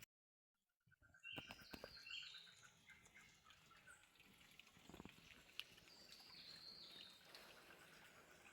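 Faint birds chirping and whistling in quiet rural outdoor ambience, with a few light ticks, starting after about a second of dead silence.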